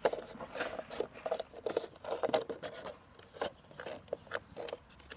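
Scissors cutting through the thin plastic of a 2-liter soda bottle: a run of irregular snips and crinkly crunches.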